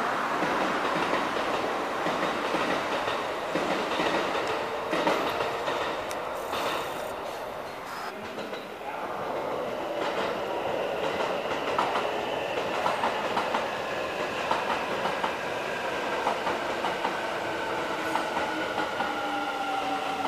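Kintetsu limited express electric trains moving through the station: a steady rumble of running gear with the clickety-clack of wheels over rail joints. From about halfway in, a motor whine slowly falls in pitch.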